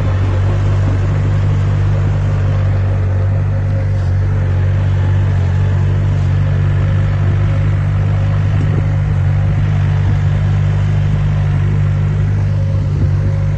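Heavy diesel engine of earthmoving equipment running steadily at constant speed, a deep low drone with no rise or fall in pitch.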